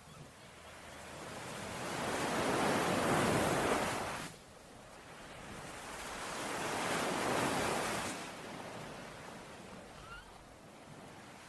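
Ocean waves washing onto a shore: one wave swells up and breaks off sharply about four seconds in, then a second surges and slowly fades, leaving a soft hiss of surf.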